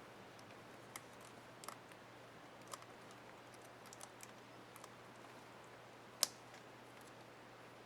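Faint small plastic clicks and taps from a laptop keycap and its retainer clips being handled on an HP Envy 15 keyboard, with one sharper snap about six seconds in.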